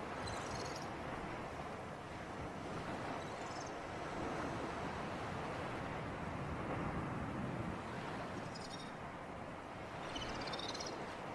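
Steady sea breeze and surf making a continuous rushing noise. Short, high chirps cut through it four times: near the start, about three seconds in, and twice near the end.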